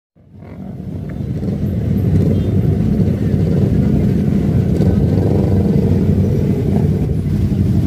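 MotoGP racing motorcycle engines running, loud and steady, fading in over the first two seconds.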